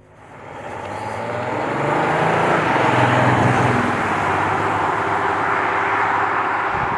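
Audi S5 Sportback's 3.0 V6 turbo-diesel accelerating hard, the engine note climbing over the first couple of seconds and the engine, tyre and wind noise then holding loud and steady.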